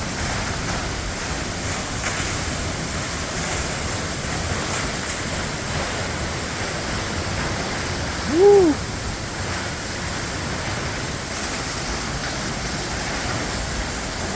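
Perrine Coulee waterfall pouring and splashing onto rock, heard as a steady rushing noise from close under the falls.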